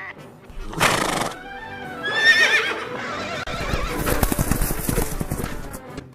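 A horse whinnies, then hooves clatter in a rapid run of clip-clops, over orchestral music. A sudden loud burst of noise comes about a second in.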